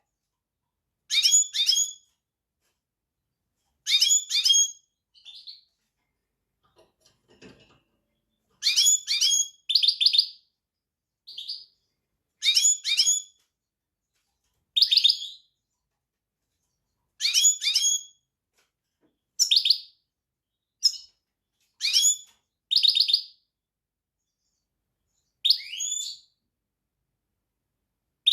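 A small finch singing in short bursts of high, rapid chirps and trills, about a dozen phrases each under a second long, with pauses of one to two seconds between them.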